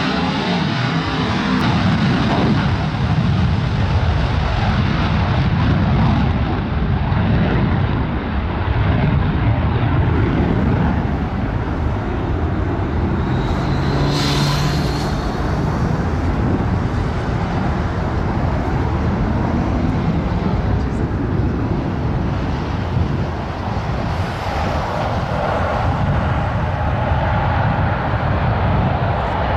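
Airplane engines running loud and steady overhead, a dense rumbling engine noise with a brief high whine about halfway through.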